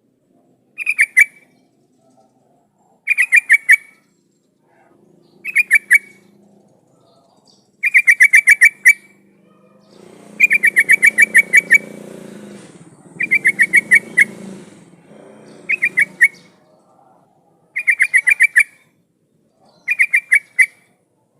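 Yellow-vented bulbul (trucukan) singing its lively chattering song: short phrases of quick repeated notes, one every two seconds or so. A faint low rumble sits under the song for a few seconds in the middle.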